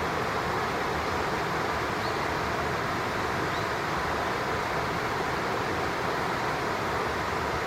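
Steady rushing of flowing water, an even hiss that holds at one level without change.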